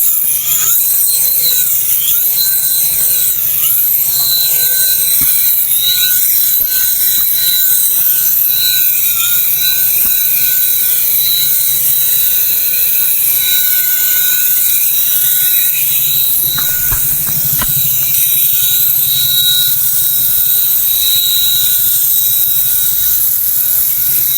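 Small electric motors and rotor blades of a toy remote-control helicopter whirring in flight: a steady high whine over a loud airy hiss, the pitch dipping briefly a few times in the first ten seconds.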